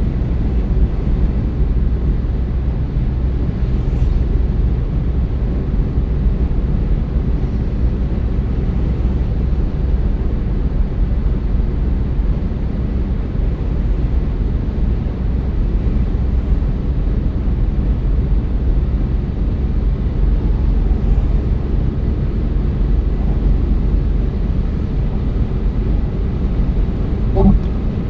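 Steady low road and engine rumble of a car driving, heard inside the cabin.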